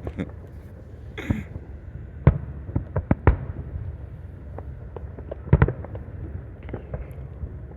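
Fireworks going off, a scattered series of sharp bangs and pops: several close together around two to three seconds in and a louder double bang a little past halfway, over a steady low rumble.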